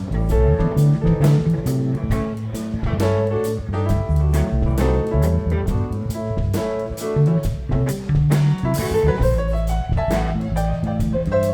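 Live band playing an instrumental section of a song: drum kit keeping the beat under bass and guitar, with a rising run of notes near the end.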